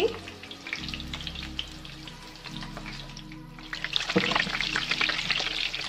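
Cornflake-crumbed chicken fingers sizzling and crackling in hot oil in a frying pan as they are turned over with a fork and spatula. The crackle gets louder a little past the middle.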